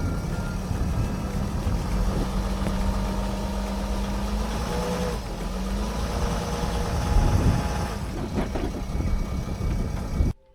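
Camper van engine running with low rumble and road noise, its steady note shifting about halfway through. The sound stops abruptly just before the end.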